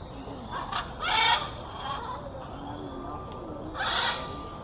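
Two harsh, loud parrot squawks, about three seconds apart.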